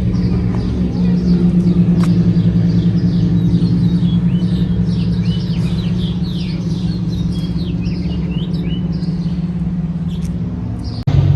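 Many small birds chirping in quick short calls over a loud, steady low hum.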